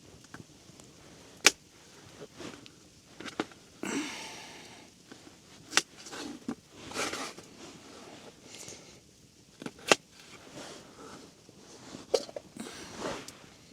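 Potatoes being cut with a Mora Garberg knife: a handful of sharp, irregularly spaced knocks as the blade chops through, with softer rustling scrapes between them.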